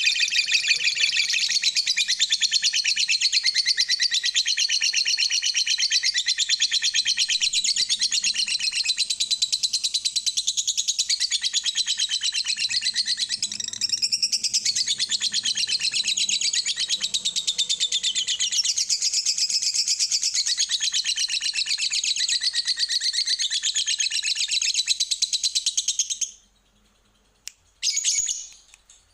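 Lovebird singing a long, unbroken chattering trill (ngekek panjang), a fast run of high chirps. It stops about 26 seconds in and then comes back in short bursts.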